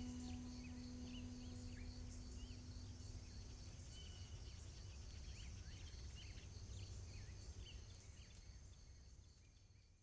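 Faint outdoor ambience: many short bird chirps over a steady high-pitched insect drone and a low rumble, fading out over the last two seconds.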